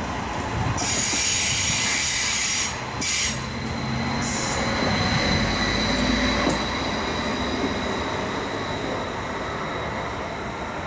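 Stadler Flirt electric multiple unit running past close by, wheels rumbling on the rails. A loud high hissing screech sounds from about one to three seconds in, with a short return about four seconds in.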